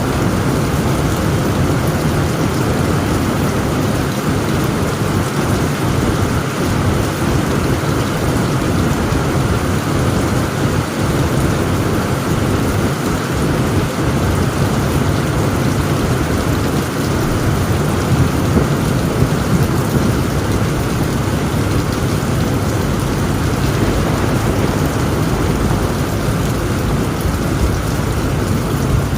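Heavy rain falling steadily on a tent roof, a dense even rush with deep rumbling thunder underneath and a slight swell about two-thirds of the way through.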